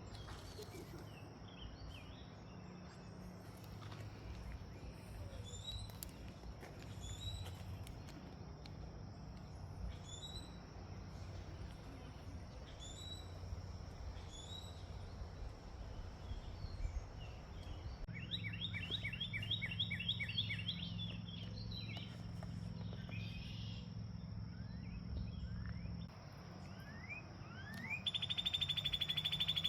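Songbirds singing: a short high chirp repeated about once a second, then a fast trill a little past halfway, and a loud, steady high trill near the end. A steady low rumble runs underneath.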